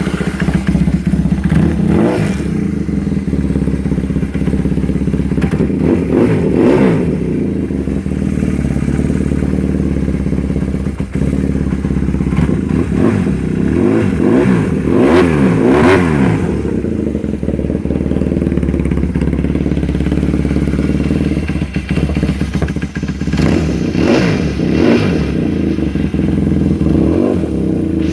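Kawasaki KZ750 motorcycle engine running just after being started from a couple of months sitting, idling with several throttle blips that send the pitch up and back down.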